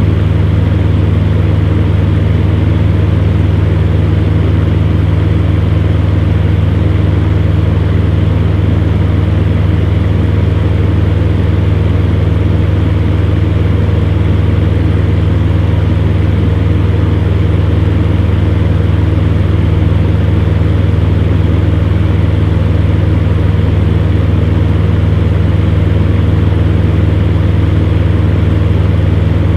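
Electric fan running steadily: a constant low motor hum under an even rush of air, unchanging throughout.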